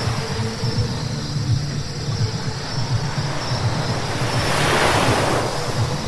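Car driving on a wet road: a steady low rumble with tyre hiss. A louder rush of hiss swells and fades about five seconds in.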